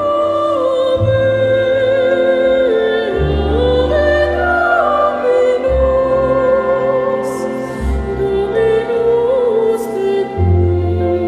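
A solo classical singer sings an operatic melody with orchestral accompaniment: held notes with vibrato over bass notes that change every second or two.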